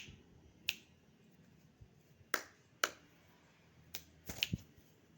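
A series of short, sharp clicks or snaps, spaced irregularly, with a quick cluster of several near the end.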